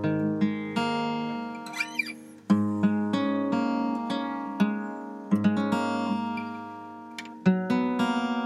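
Acoustic guitar music, plucked notes and strummed chords ringing out, with a brief sliding squeak of a finger on the strings about two seconds in.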